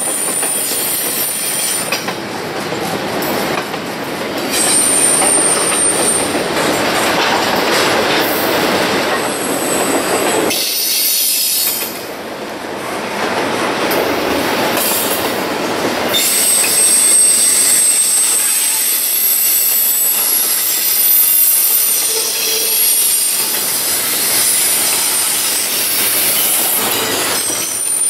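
Double-stack intermodal freight train rolling past: steady rumble and rattle of wheels on rail, with high-pitched wheel squeal that comes and goes, heaviest in the second half.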